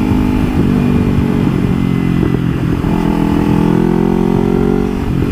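Kawasaki Ninja 300's parallel-twin engine running under way, its pitch climbing gently in the second half and easing off near the end.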